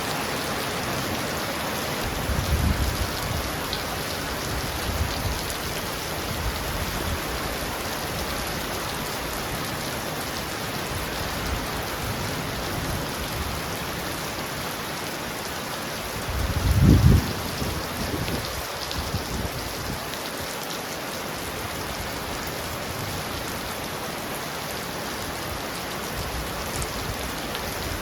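Heavy rain pounding steadily on a roof. It is broken by two brief low rumbles: a small one a couple of seconds in and a louder one a little past halfway.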